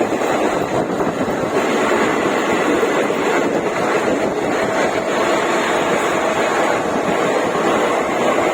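Train running at speed: a steady rushing rumble of wheels on rail, with wind noise on the microphone.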